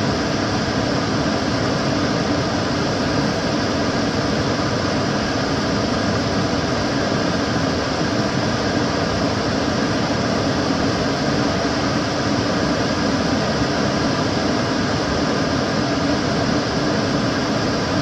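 Kitchen cooker hood extractor fan running steadily: an even whooshing rush of air with a low hum underneath, unchanging throughout.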